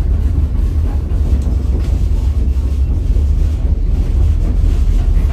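Steady low rumble of a White Pass & Yukon Route railway passenger car rolling along the track, heard from inside the car.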